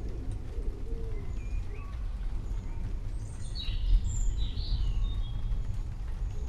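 Forest birds chirping and calling, with a cluster of louder chirps about halfway through and faint high notes repeating about once a second. Underneath runs a steady low rumble.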